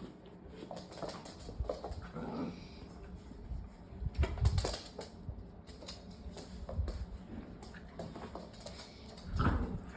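Labrador puppies playing: scattered clicks and scuffling, with small puppy vocal sounds and a louder burst about four and a half seconds in and again near the end.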